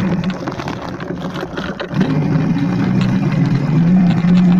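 Electric dirt bike riding, its motor and drive giving a steady low hum under rough noise. The hum dips about a second in and picks up again around two seconds.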